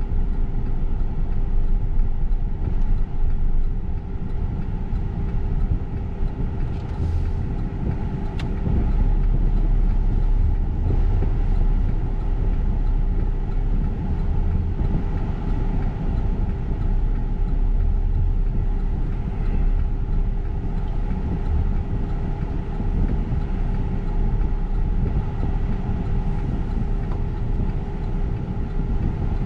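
BNSF intermodal freight train of double-stacked containers rolling steadily through a grade crossing, a continuous low rumble with a constant tone above it, heard from inside a car waiting at the crossing.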